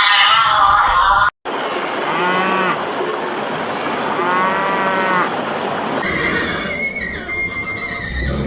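Cattle mooing: two drawn-out lows, each rising and then falling in pitch, about two and about four seconds in. Another animal's call is cut off abruptly about a second in.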